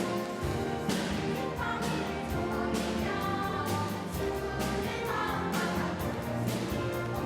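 Children's choir singing with orchestral accompaniment, a steady rhythmic beat running through.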